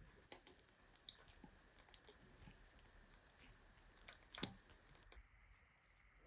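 Scattered small clicks and taps, with one louder knock about four and a half seconds in, over a faint steady high-pitched tone.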